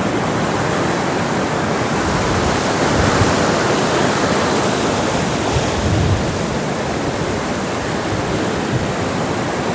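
Sea surf washing onto the beach: a steady rushing of waves that swells slightly about three seconds in and again around six seconds.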